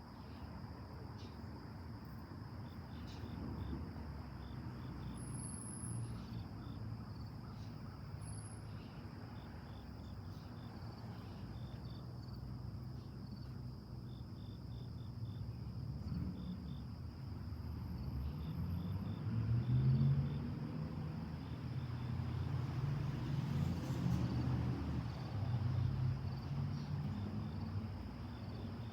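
Late-summer insect chorus: a steady high trill, typical of crickets, with a quieter row of short, evenly repeated chirps under it. A low rumble runs beneath and grows louder in the second half.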